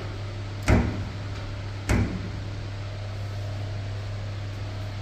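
Two dull thumps about a second apart as laundry is loaded into a front-loading commercial washing machine's drum, over a steady low hum.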